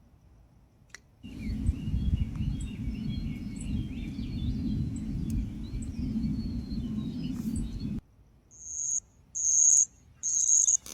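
Night-time outdoor ambience: a low rumble with wavering chirping calls over it, stopping abruptly after about seven seconds. Then come three loud, high-pitched insect trills, each about half a second long.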